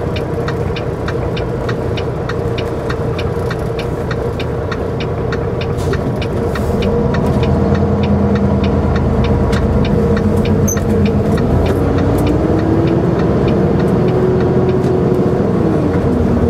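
Semi-truck cab interior: diesel engine and road noise, the engine pitch rising as the truck picks up speed from about seven seconds in, holding, then dropping near the end. A steady ticking runs underneath.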